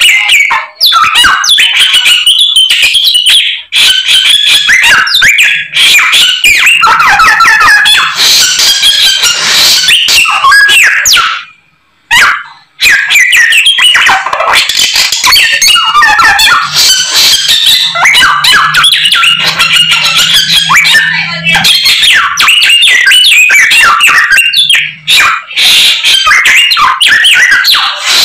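A Samyong songbird singing loudly and without pause in a rapid, varied stream of notes, full of mimicked calls of other birds. It breaks off briefly about twelve seconds in.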